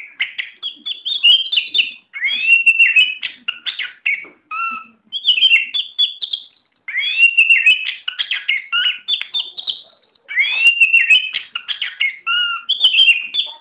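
Oriental magpie-robin (kacer) singing loudly in about five bursts of varied whistles, slurred notes and sharp chattering clicks, with short pauses between the bursts.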